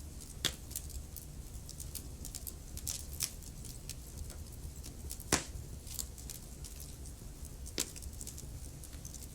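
Wood fire crackling in a fireplace: a steady low rumble under scattered small crackles, with three louder pops, the loudest about halfway through.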